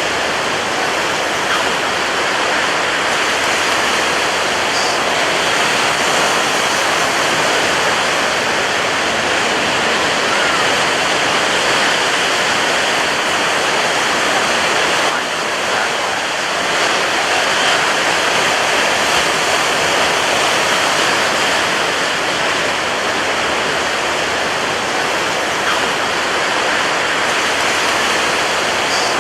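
Ocean surf breaking on a beach: a steady, dense rush of water, dipping slightly for a moment about halfway through.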